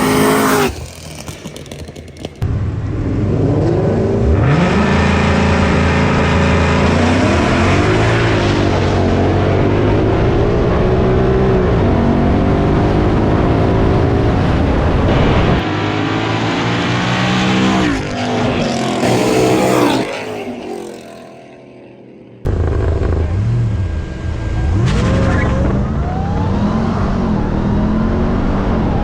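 High-performance car engines revving and accelerating hard on street drag runs, the engine pitch climbing steeply, with abrupt cuts from one run to the next and a quieter stretch about twenty seconds in.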